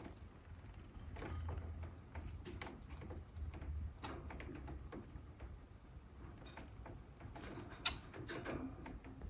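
Bengalese finches moving about their cage: scattered light taps, scratches and clicks with a few short chirps, the sharpest click near the end, over a faint low rumble.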